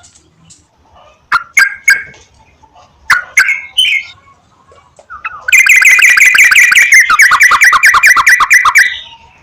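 Yellow-vented bulbul calling: a few short bubbly notes, then from about five seconds in a loud, fast run of rapidly repeated chattering notes lasting about three and a half seconds.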